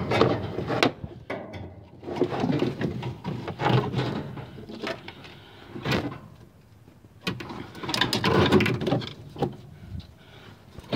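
Brake parts and lines being worked by hand into a car's engine bay: irregular bursts of scraping, rattling and knocking of metal, with the loudest bursts near the start, through the middle and about 8 to 9 seconds in.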